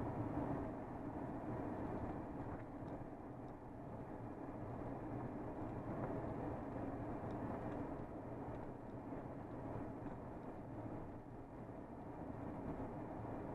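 A vehicle's engine pulling steadily under load in second gear up a steep 13% grade, mixed with road noise, at an even level throughout.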